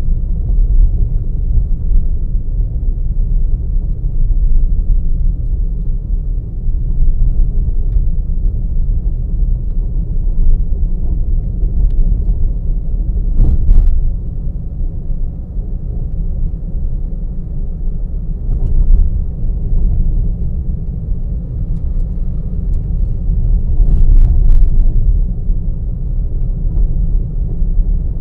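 Car driving, heard from a camera mounted in the car: a steady low road and engine rumble, with a few brief clicks or knocks about halfway through and a couple more near the end.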